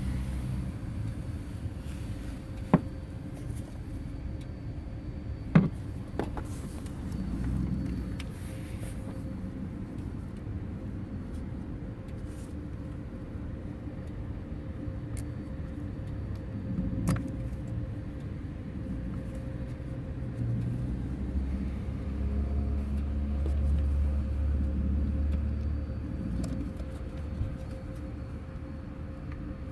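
A steady low rumble with a few sharp clicks and taps of parts being handled, and a louder stretch of rumble near the end.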